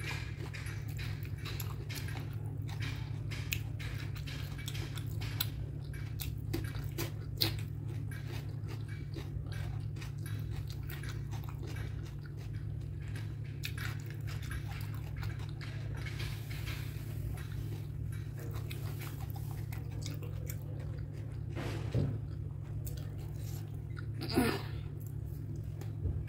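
Close-miked chewing and wet mouth clicks of a person eating, over a steady low hum, with a brief louder mouth sound near the end.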